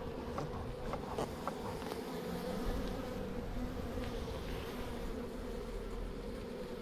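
A swarm of honey bees buzzing steadily around an opened hive as its frames are moved, with a few faint clicks in the first second or so.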